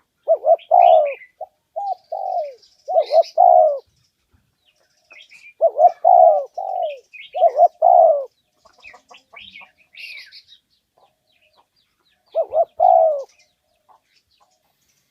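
Spotted dove cooing its territorial call, repeated coo phrases in three bouts: one near the start, one in the middle and one near the end. Faint short chirps of smaller birds sound higher up between the phrases.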